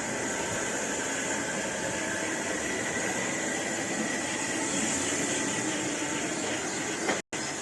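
Railway train running past with a steady rushing noise, broken by a brief dropout to silence near the end.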